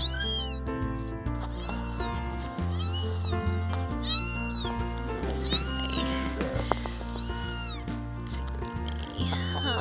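Two very young kittens crying with high, thin mews, about seven calls each rising then falling in pitch, over background music.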